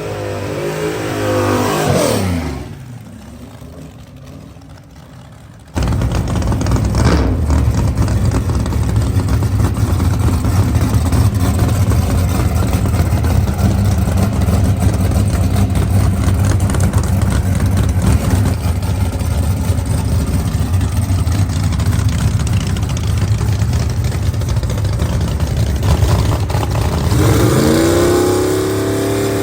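A small-block single-turbo Corvette drag car's engine revving and running loud. Its pitch glides in the first two seconds, then it turns suddenly much louder about six seconds in and stays loud until a rising rev near the end.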